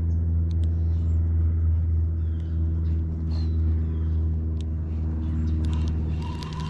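A steady, low motor hum holding one pitch, with a few faint high chirps and clicks over it.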